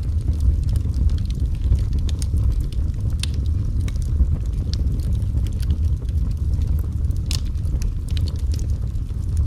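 Wood fire crackling in a fireplace: a steady low rumble of the burning fire with irregular sharp pops and crackles, a few loud snaps scattered through.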